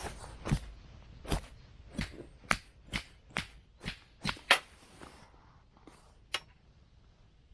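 A run of about ten sharp knocks, roughly two a second, the loudest about four and a half seconds in, stopping about two-thirds of the way through.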